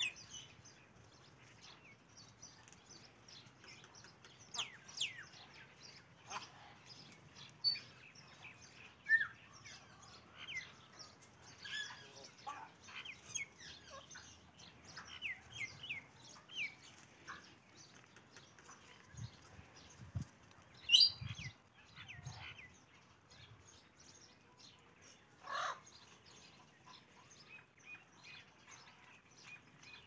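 Birds chirping: many short, scattered calls with quick pitch sweeps, two of them louder about two thirds of the way through.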